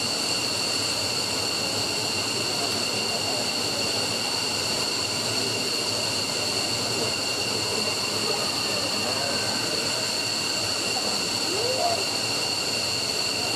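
F-15's Pratt & Whitney F100 turbofan running steadily on a ground engine run: a constant rush of noise with a high whine held at a fixed pitch.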